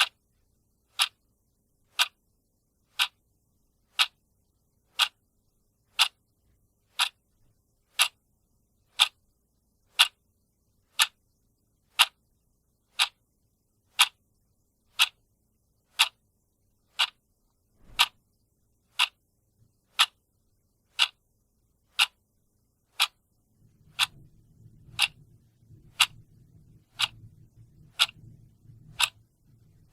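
Clock ticking steadily, one sharp tick each second. A faint low rumble comes in under the ticks near the end.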